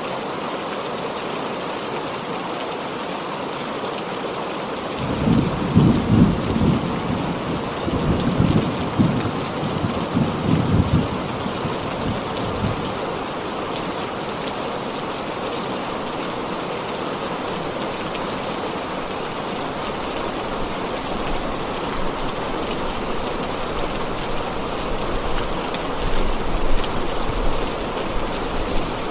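Heavy rain falling steadily, with a rumble of thunder rolling in several swells from about five seconds in for some seven seconds, and a fainter rumble near the end.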